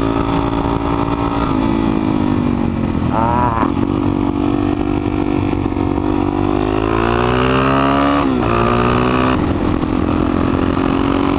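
Suzuki DR-Z400SM supermoto's single-cylinder engine under way, the revs climbing and falling through gear changes. There is a short, sharp rev about three seconds in, and the revs drop and climb again about eight seconds in.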